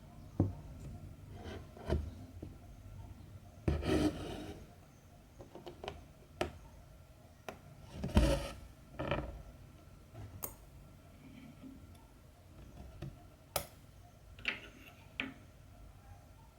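Cross-stitching handling sounds: scattered light taps and clicks of the needle and hoop, with two longer rustles of thread and fabric about four and eight seconds in.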